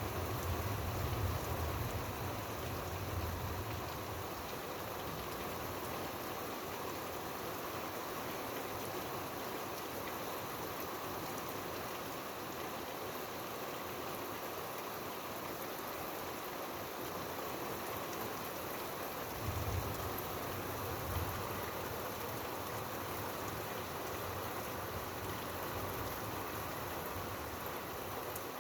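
Steady heavy rain falling, an even hiss and patter, with a low rumble in the first few seconds and again about two-thirds of the way through.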